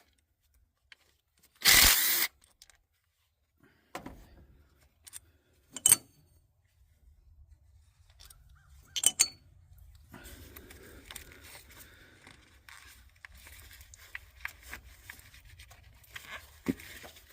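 A power driver spins out a 10 mm ignition-coil bolt in one short burst about two seconds in. A few sharp clicks follow, then faint scraping and rattling as the coils and bolts are handled.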